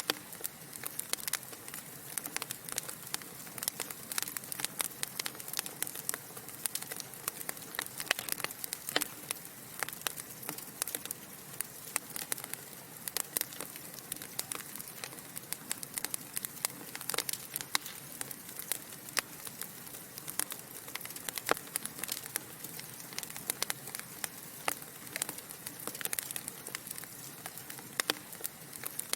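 Logs burning in a fireplace, crackling: irregular sharp pops and snaps, several a second, over a steady soft hiss.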